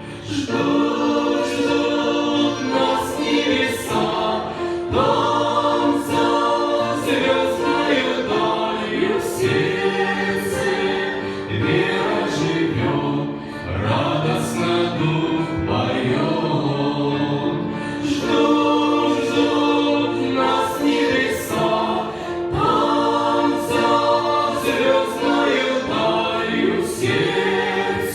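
Choir singing a Christian song in Russian.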